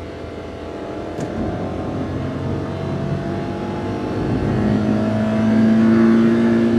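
Daihatsu Hijet kei van's engine, on stock intake and exhaust, accelerating: its note climbs slowly and grows louder, then settles into a strong steady hum in the second half. A single sharp click sounds about a second in.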